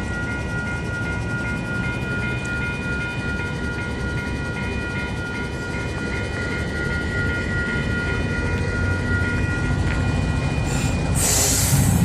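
Freight train stopped at a level crossing: a steady low rumble of idling locomotive diesels under a crossing warning bell that rings steadily at about two to three strokes a second. Near the end comes a short, loud hiss of air, and the rumble swells.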